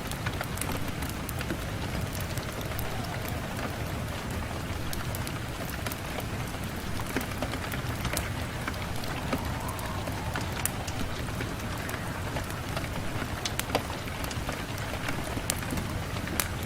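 Rain on a window pane: a steady rush of rain with a low rumble, scattered with many short, sharp drop taps.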